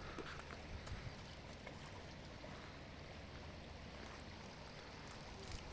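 River water flowing steadily, with a few faint clicks.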